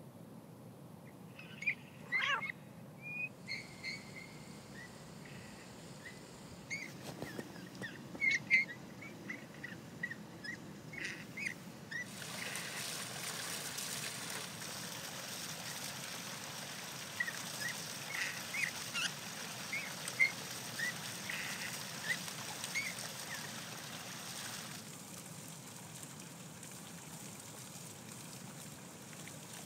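Short, scattered call notes from a Eurasian bullfinch, mostly at one pitch. Partway through, a stone fountain's water starts gushing and splashing steadily, with the calls still going over it, and then it stops suddenly.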